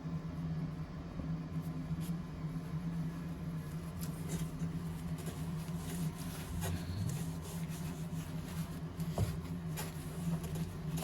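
A steady low hum with faint scattered clicks and rustles.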